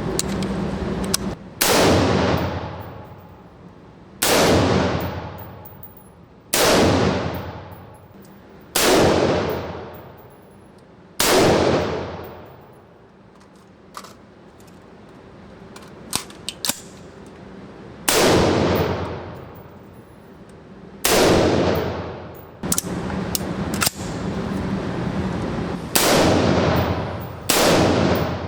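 Gunshots at a shooting range, fired one at a time roughly every two to three seconds, about ten in all. Each loud report is followed by a long fading tail.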